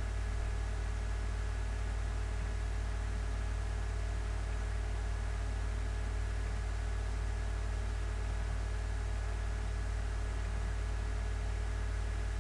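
Steady low hum with a faint even hiss and no distinct events: the background noise of the recording room.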